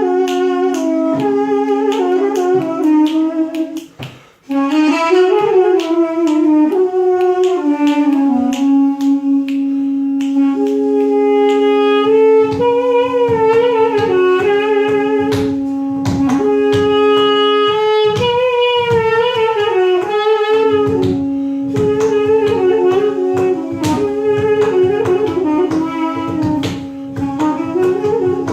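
Two Caucasian double-reed pipes, balaban and duduk, playing together: one holds a steady drone while the other plays an ornamented melody that slides and bends in pitch. The drone breaks off briefly about four seconds in, and again for a few seconds past the middle.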